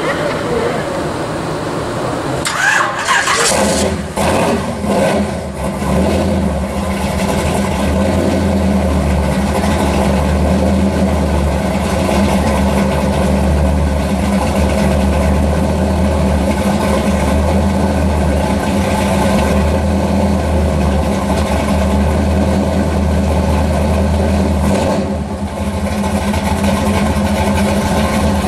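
1966 Chevy II Nova Pro Street car's engine being started: it catches about three seconds in with a few sharp bangs, runs unevenly for a couple of seconds, then settles into a steady idle.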